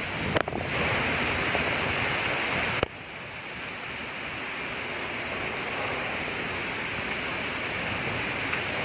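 Heavy rain falling steadily as a dense, even hiss. The level drops suddenly just before three seconds in and then slowly builds again.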